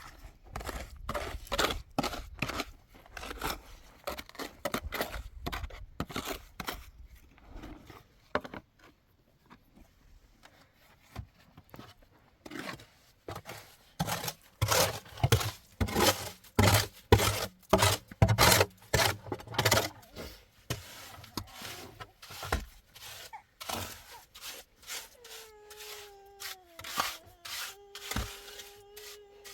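Rapid series of sharp knocks and scrapes, in bursts of two or three strikes a second, with a steady faint tone held over the last few seconds.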